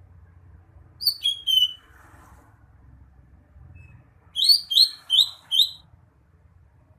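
Green leafbird (cucak hijau) singing: two short phrases of clear, downward-sliding whistled notes, three notes about a second in and four quick repeated notes a few seconds later.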